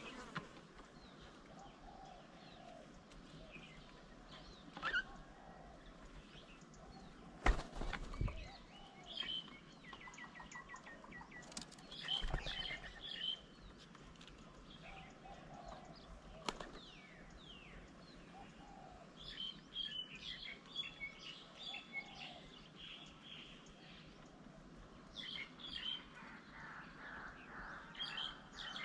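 Several small birds at a bird table chirping and calling in short repeated phrases and trills, with a few sudden thumps and wing flaps mixed in.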